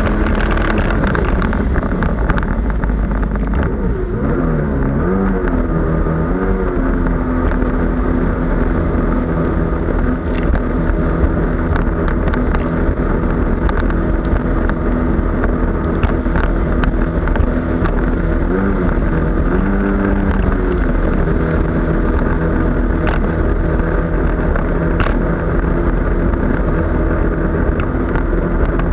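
Jet ski engine running under way, its pitch rising and falling twice as the throttle is worked, over a low rumble and wind on the microphone.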